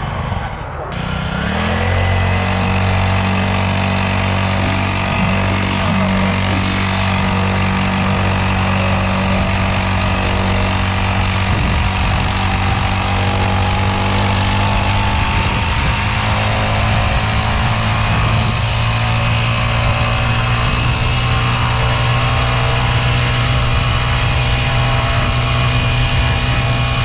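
Small dirt bike engine running at a steady speed under way. After a brief dip about a second in, the note holds even, then climbs slowly in pitch partway through.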